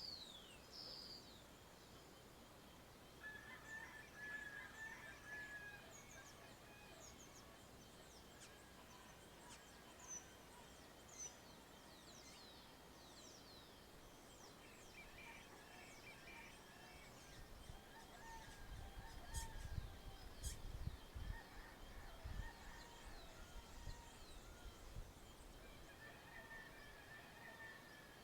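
Faint dawn chorus of birds: many short chirps and quick downward-sweeping calls, with a few longer, lower calls now and then. A low rumble comes and goes around the middle.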